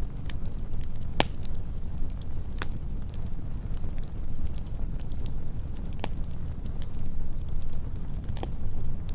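Campfire burning with a steady low rumble and sharp crackling pops, four of them standing out. A cricket chirps about once a second throughout.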